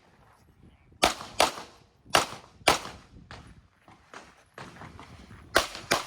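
Pistol shots fired in irregular strings at a shooting range: three pairs of loud, sharp shots, one pair about a second in, one just after two seconds and one near the end, with quieter shots in between.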